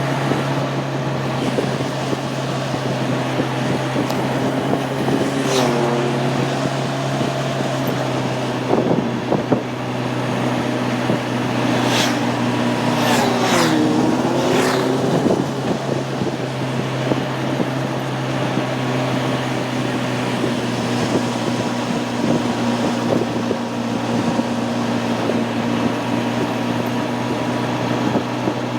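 Honda CB600F Hornet's inline-four engine running under way with wind rush, heard from on the bike. The engine note drops and climbs again briefly around six seconds in and more deeply about halfway through, as the bike slows and accelerates.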